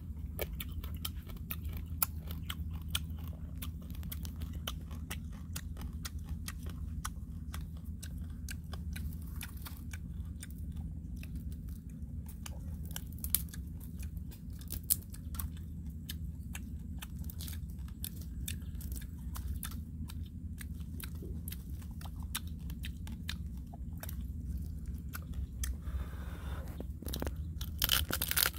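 Chewing and crunching of grilled crab shell and meat close to the microphone, with crisp cracks as the shells are broken apart by hand. A cluster of louder crunches comes near the end as a piece of crab is bitten into.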